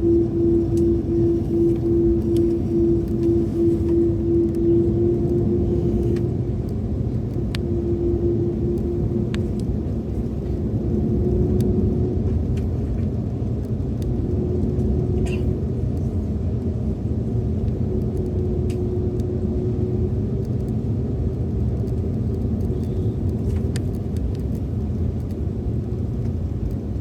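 Airliner cabin noise as the jet taxis: a steady low rumble. Over it, a pulsing hum at one pitch is strong for about the first six seconds, then returns only faintly now and then.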